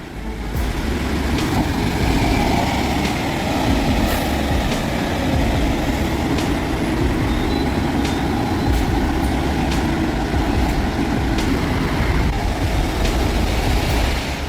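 A heavy vehicle running with a steady rumble.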